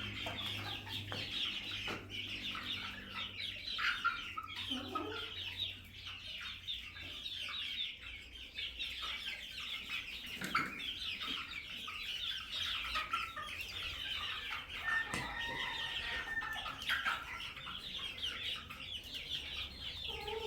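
A flock of backyard hens and half-grown chicks clucking and chirping continuously, with many short overlapping calls. One longer drawn-out call comes about three-quarters of the way through.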